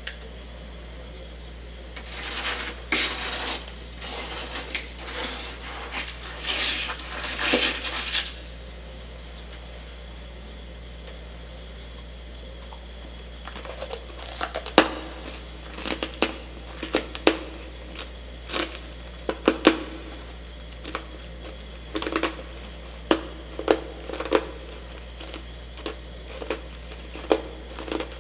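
Soft freezer frost being bitten and chewed close to the microphone. A dense spell of crunching comes first, then a pause, then a run of sharp single crunches about once a second, over a steady low hum.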